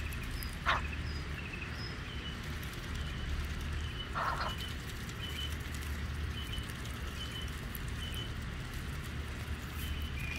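Small birds chirping faintly at irregular intervals over a low steady hum, with a brief click near the start and a short noisy burst about four seconds in.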